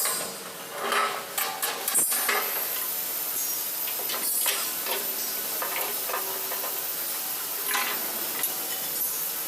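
A few sharp metallic knocks, then a steady, even hiss from about two seconds in.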